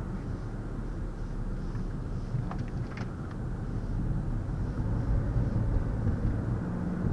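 Steady low road and engine rumble heard inside the cabin of a 2020 Ford Escape SE with its 1.5-litre EcoBoost engine, while driving. Two brief clicks come about two and a half and three seconds in.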